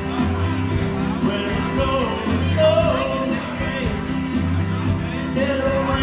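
Band playing a rock song with a steady beat, with a singing voice over the instruments.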